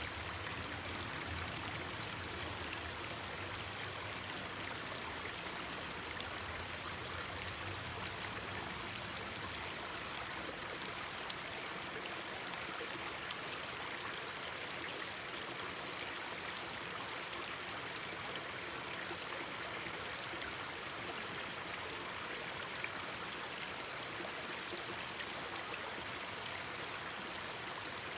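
Mountain stream babbling steadily over rocks. A few faint sharp pops, campfire crackles, sound now and then.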